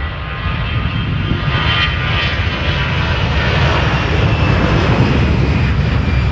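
Airbus A320 jet engines at takeoff thrust: a loud, steady jet noise with a deep rumble, swelling slightly toward the end.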